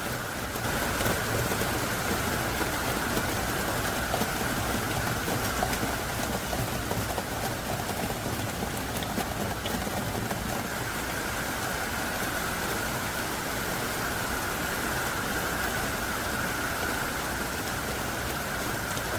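Heavy downpour (jakdalbi): thick, hard-falling rain making a steady, even hiss with no breaks.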